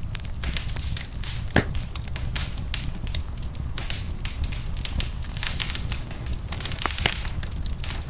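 Wood fire burning in a fireplace, crackling with many irregular small pops and a low, steady rumble of flame; a couple of louder pops stand out, one about a second and a half in and one near the end.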